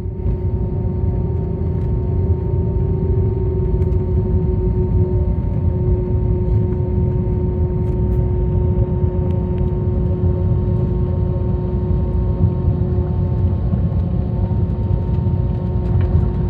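Cabin noise inside an Airbus A321 rolling along the runway just after landing. A heavy, steady low rumble from the rollout, with a steady hum above it.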